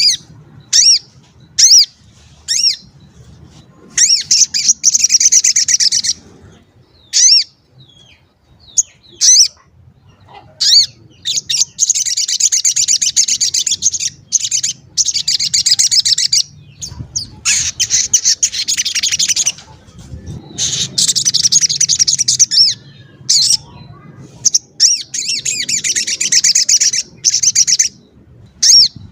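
A sogon calling: single sharp high 'cuit' chirps alternate with rapid, dense chattering song bouts of one to four seconds each, a lure call meant to excite other sogons into singing.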